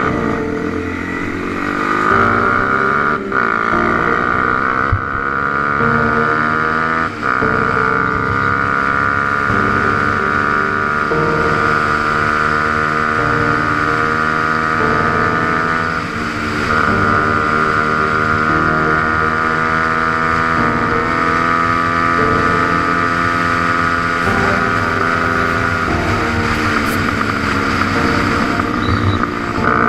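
140cc pit bike's single-cylinder engine running under way. Its pitch sweeps up in places and steps up and down as the rider works the throttle and gears.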